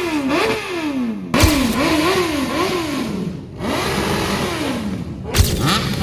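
Sport motorcycle engines being revved in quick blips, the pitch climbing and dropping about twice a second. The sound breaks off and starts afresh abruptly about a second in and again near the end.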